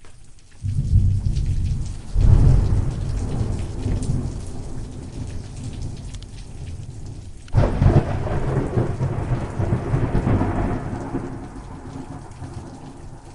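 Thunderstorm: rain falling steadily while thunder rolls in twice, a sudden deep rumble within the first couple of seconds that fades slowly, then another sharp clap about seven and a half seconds in that rumbles away over several seconds.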